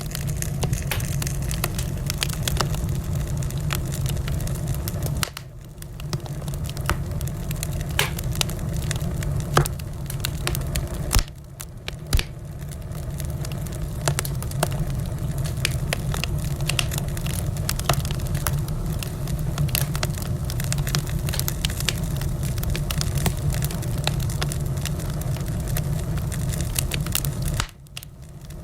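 Wood fire crackling, with frequent sharp pops and snaps over a steady low rumble of the flames. The sound drops away briefly about five seconds in, again about eleven seconds in, and near the end.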